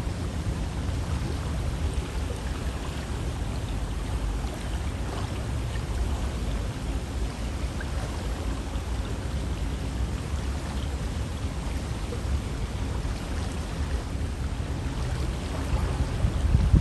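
River water flowing steadily: an even rushing noise with a heavy low rumble underneath, swelling louder and lower right at the end.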